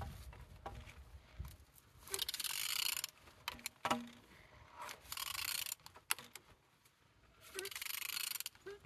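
A removed car engine being turned over by hand at the crankshaft, giving three stretches of mechanical noise about a second each, with a few short clicks between; the engine turns freely.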